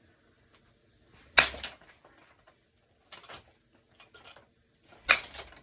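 Two baseballs struck by an Icon 31-inch drop 5 composite bat, a sharp crack about a second and a half in and another near the end, each with a short ring. This is the composite sound the hitter likes.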